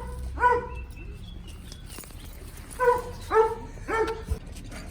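A dog giving short, high, excited yips: two near the start, then three more in quick succession about three seconds in.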